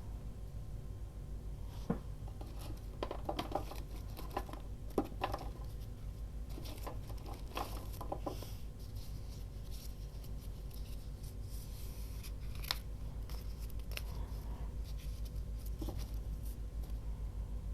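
Scissors snipping paper in short, irregular cuts, with a few sharper clicks, over a steady low hum.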